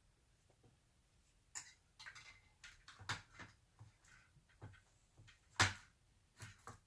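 Scattered clicks and light knocks from parts of a power sliding rear window assembly being handled, with one sharp knock about five and a half seconds in.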